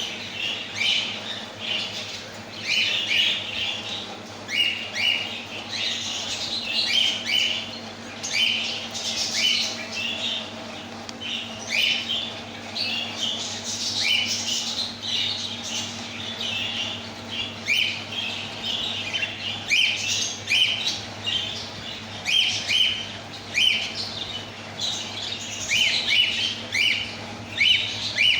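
Many caged budgies and cockatiels chattering and squawking together in a dense, unbroken chorus of short calls, over a faint steady low hum.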